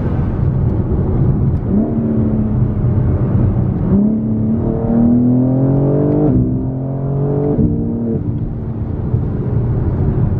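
BMW M4 Competition's S58 twin-turbo straight-six with aftermarket downpipes, accelerating hard through the gears. The engine note climbs steadily and then drops sharply at each of several quick upshifts, about two seconds apart.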